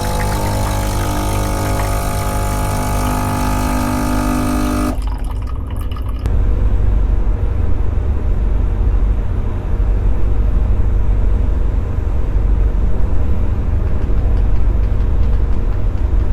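Music for about the first five seconds, then a steady, low engine rumble of a running motor vehicle for the rest.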